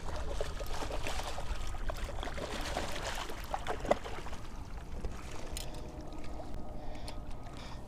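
Water splashing and trickling around a kayak, with small knocks and one sharper knock about four seconds in.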